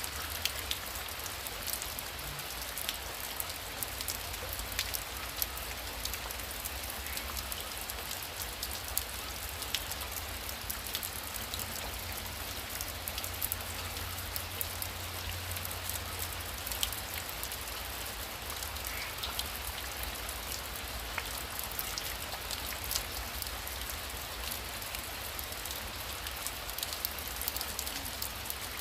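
Heavy rain falling steadily: a dense, even hiss of water with many sharp individual drop hits, over a low steady rumble.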